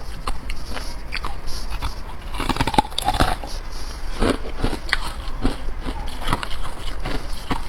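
Close-up biting and crunching of hard carbonated ice: irregular sharp crunches a few times a second, thickest about two and a half to three and a half seconds in.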